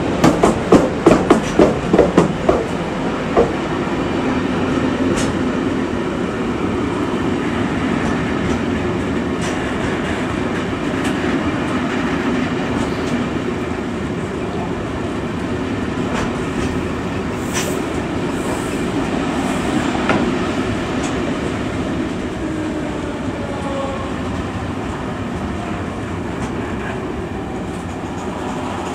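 Intermodal freight train of pocket wagons carrying semi-trailers rolling past close by. Over the first few seconds the wheels clatter over rail joints in a fast run of clacks. After that comes a steady rumble of wheels on track, with an odd click.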